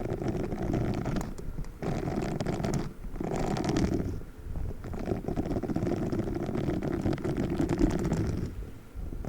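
Spiky sponge being squeezed and rubbed close to the microphone: a dense, low, crackling rumble with brief breaks about two and three seconds in and again near the end.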